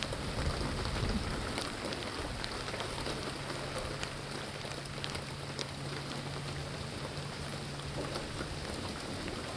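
Steady rain falling, with scattered drops ticking, during a thunderstorm.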